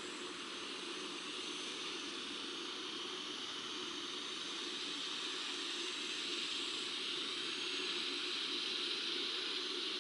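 Steady rushing outdoor ambience with no distinct events, growing slightly louder over the second half.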